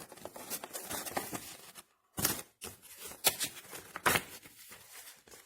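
Handling noise: rustling and crinkling as objects or packaging are handled, with several sharp clicks or taps, the loudest about two, three and four seconds in.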